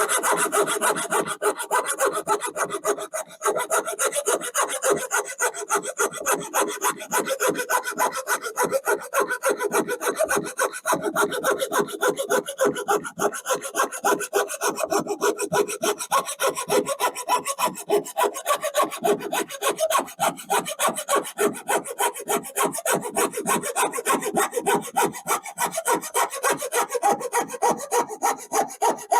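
Coping saw cutting through a wooden board by hand, its blade rasping in rapid, even back-and-forth strokes.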